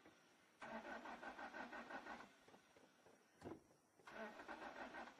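Car engine being cranked by the starter without catching, in two tries of about a second and a half each; the engine won't start. A short knock comes between the tries.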